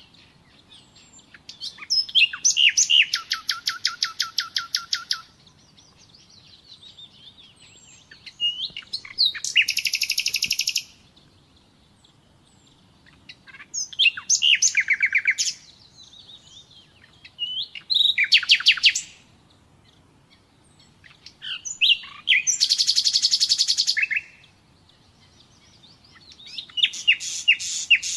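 Nightingale singing: about six separate phrases, each a fast run of repeated notes, some of them rapid trills, with short pauses between the phrases.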